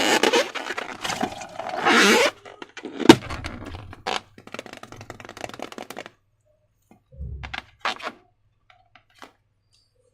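Hands handling slime-making materials: about two seconds of scraping and crackling, a sharp knock about three seconds in, then scattered clicks and a low thump.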